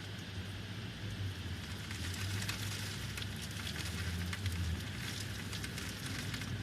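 Heavy rain falling and pattering on a surface: a steady hiss with dense drop ticks that thicken about two seconds in, over a low steady rumble.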